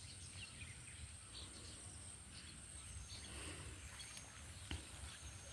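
Faint bush ambience: a steady high-pitched insect drone with a few faint rustles, and a light tick near the end.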